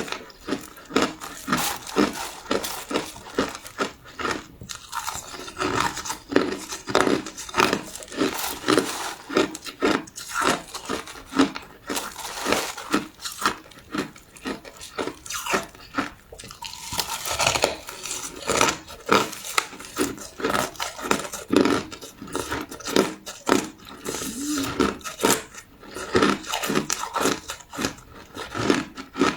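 Crushed ice being chewed close to the microphone: loud, irregular crunching and crackling bites, several a second.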